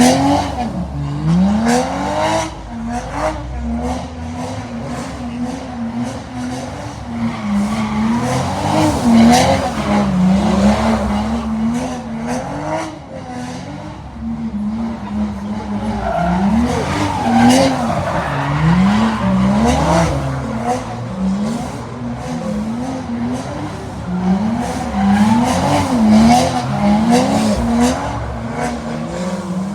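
Car engine revved again and again, its pitch climbing and dropping with each throttle blip between spells of steadier running.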